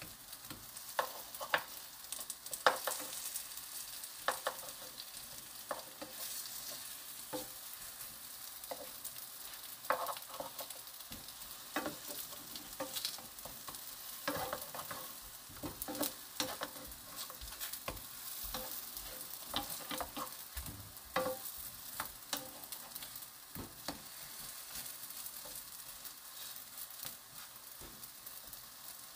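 Battered Korean zucchini slices sizzling in oil in a nonstick frying pan, with frequent irregular clicks and taps as wooden spatulas turn them over.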